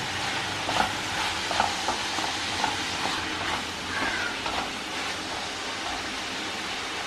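Sliced onions sizzling in oil in a kadai while a wooden spatula stirs them, scraping and knocking against the pan a few times in the first three seconds; the onions are being sautéed until soft.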